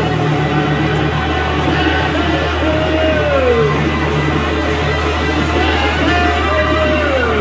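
Loud live rock band music with electric guitar over a heavy, steady bass, the guitar line sliding down in pitch about every three and a half seconds.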